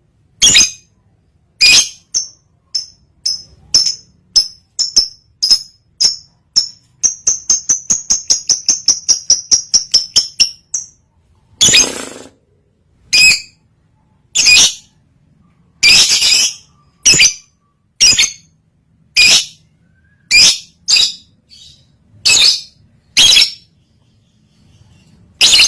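Lovebird in breeding condition calling: sharp, shrill chirps. About a third of the way in comes a fast run of about six chirps a second, then loud single calls about once a second.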